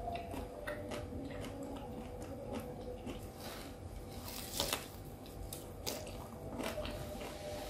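Close-up chewing and biting of a fried stuffed tofu (tahu isi) with a vermicelli and vegetable filling: wet mouth sounds and small crackles, with a louder bite about four and a half seconds in.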